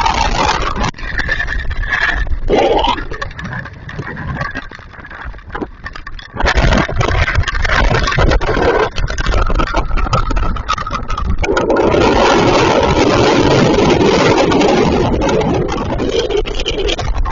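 Heavy hailstorm: a dense, loud clatter of hailstones hitting, easing off for a couple of seconds in the middle, then coming back just as hard.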